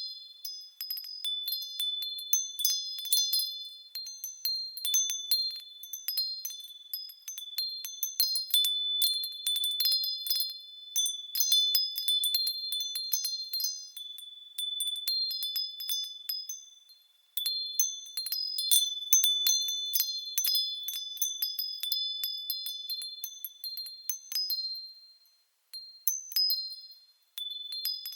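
Japanese fūrin wind bell ringing as its clapper is blown against it: a clear, high ring with several overtones, struck in irregular flurries. It falls quiet briefly a few times in the second half before ringing again.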